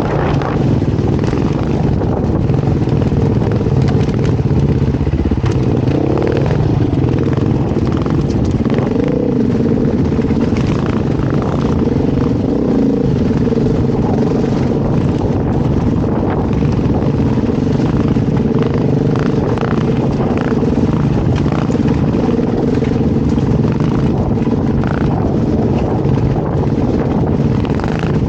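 Beta dirt bike engine running while riding, its pitch rising and falling a little with the throttle, with scattered clicks and rattles.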